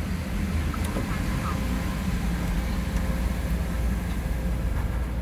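GMC Savana van's engine idling in neutral, a steady low rumble inside the cab, under an even hiss with a few faint clicks.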